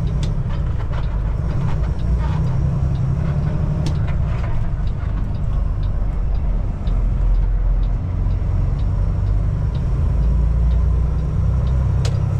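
Kenworth T680 semi truck's diesel engine heard from inside the cab, lugging under heavy load as the truck struggles up a hill. A light, regular ticking runs through the middle of it.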